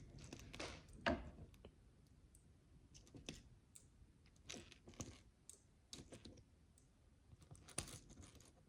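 Micro bricks, tiny plastic building bricks, being handled and pressed together: soft, scattered clicks and taps, the sharpest about a second in and another near the end.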